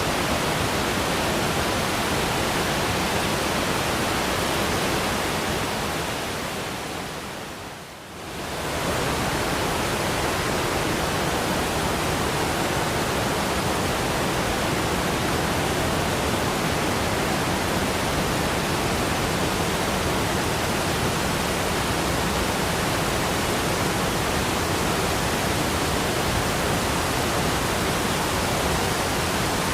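Waterfall rushing as a steady, even wash of water noise. About six seconds in it fades away over two seconds, then returns suddenly at full level.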